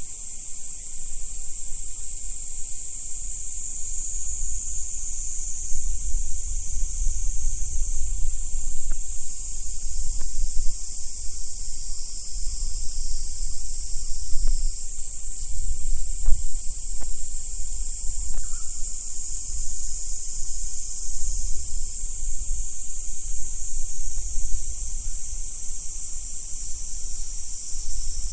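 Steady, high-pitched chorus of insects calling without a break, over a low rumble that comes and goes.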